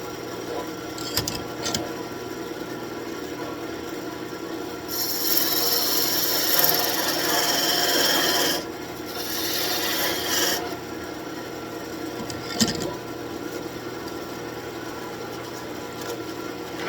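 Wood lathe running with a steady hum while a turning tool cuts the spinning birch branch, a scraping, rasping sound on the wood. The cutting grows louder twice in the middle, for about three seconds and then about a second, with a few light knocks around it.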